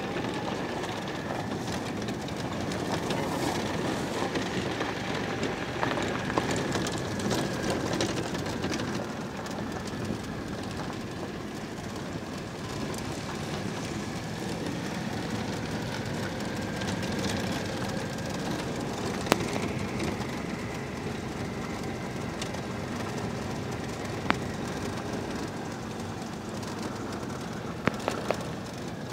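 Citroën 2CV's air-cooled flat-twin engine running as the car drives slowly, heard from inside the cabin with steady road and body noise. A few sharp knocks stand out in the second half.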